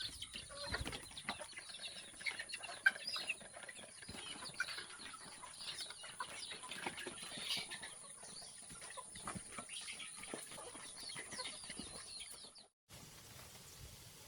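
Chickens clucking and moving about, with many short chirps and scratchy clicks and a steady high whine behind them. Near the end it all cuts off abruptly and gives way to a quieter, even background.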